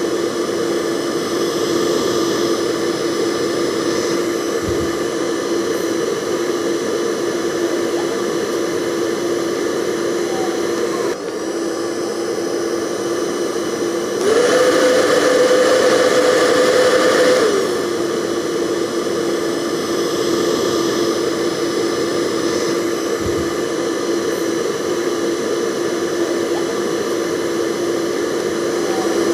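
Hair dryer running continuously: a steady whirring motor tone under a wide rushing hiss of air. About halfway through it runs louder and higher-pitched for roughly three seconds, then settles back to its lower steady pitch.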